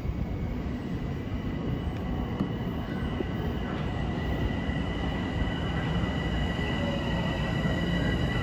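Metro-North Hudson Line train running on the track, a steady rumble growing gradually louder, with a thin high-pitched whine that comes in about three seconds in and strengthens.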